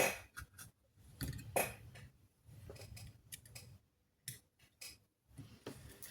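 Irregular clicks, taps and short scraping noises of small tools and parts being handled while a power supply board is worked on.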